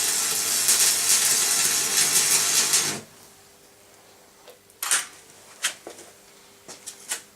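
A steady rushing noise that cuts off suddenly about three seconds in, followed by a handful of light clicks and knocks.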